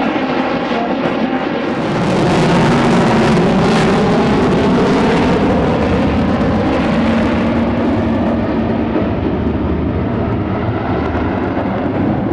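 Jet noise from a Lockheed Martin F-35's single afterburning turbofan as it flies a display. The noise is loud and steady, swells about two seconds in, and grows duller as its high hiss fades in the second half.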